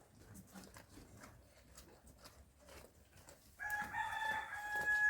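A rooster crowing once, a long call held at a steady pitch for about two seconds, starting about three and a half seconds in. Before it, only faint scattered crackling.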